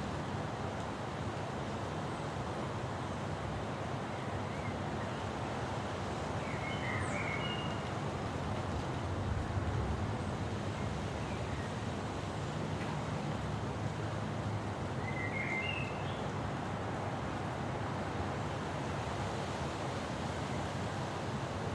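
Steady wind noise of a thunderstorm, with a low swell about nine to ten seconds in. A bird gives short chirps twice, about seven and sixteen seconds in.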